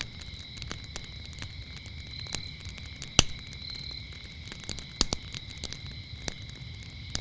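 Wood fire crackling with irregular sharp pops, the loudest about three seconds in and another about five seconds in, over a low steady rumble of the flames. Crickets trill steadily and high throughout.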